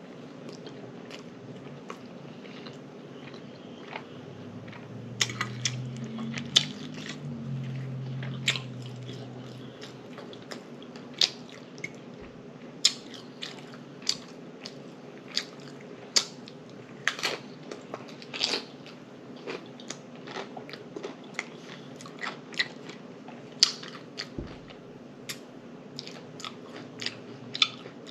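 Close-miked chewing and biting of chicken taco salad: wet mouth clicks and lip smacks with some crunching, coming every second or so. A low hummed 'mmm' sounds from about five to ten seconds in.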